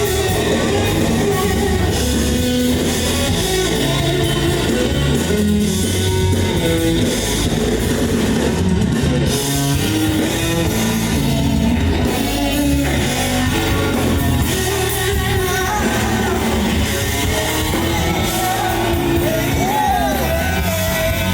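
R&B band playing live, with singing over guitar, bass and drums, in a large hall.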